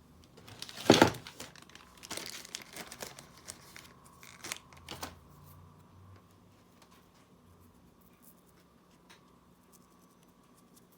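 Thin plastic being crinkled and torn by hand, with a sharp loud burst about a second in and further crackles over the next few seconds, then only faint small handling clicks.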